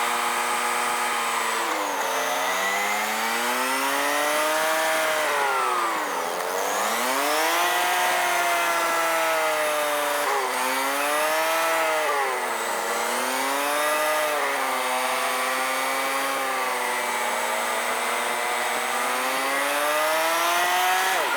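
Motorcycle engine heard while riding: its pitch climbs and sinks with the throttle and road speed, dipping deeply about six seconds in and dropping suddenly a few times, as at gear changes, over a steady rush of wind.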